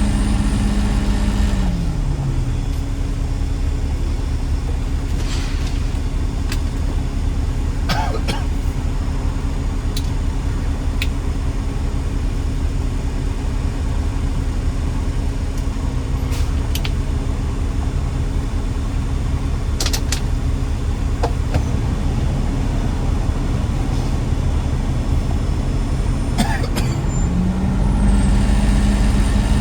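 Heavy truck engine running steadily. Its pitch drops about two seconds in and rises again near the end, with a few short clicks and knocks.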